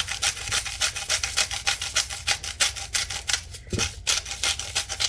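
Salt grinder being twisted over the food, a fast, even rasping of about eight to ten grinding strokes a second.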